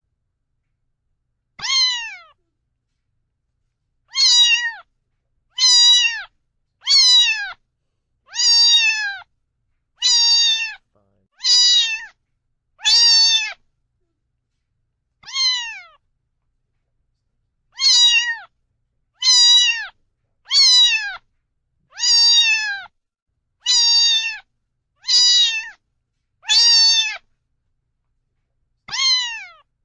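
Domestic cat meowing over and over, about seventeen meows in half a minute, each a short call that drops in pitch at the end, with silence between them.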